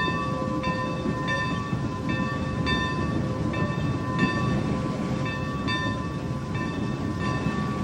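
Steam locomotive's cab bell ringing steadily, struck about one and a half times a second, over the low rumble of the moving train. The bell is rung to warn of the train's approach at a crossing.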